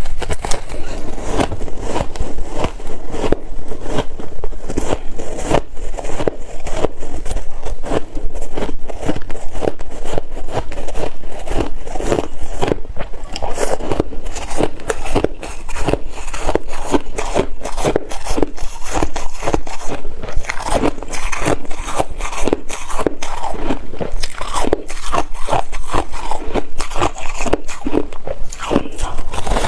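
Ice being bitten and chewed, a continuous run of crisp crunches several times a second.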